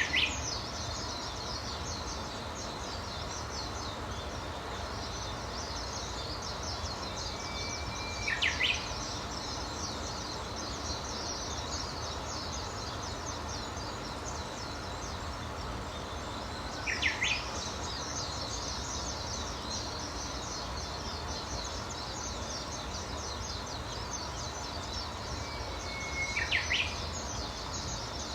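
A songbird sings four times, roughly every nine seconds. Each song is a held whistled note that breaks into a quick rising flourish. Behind it runs a constant dense, high-pitched chatter.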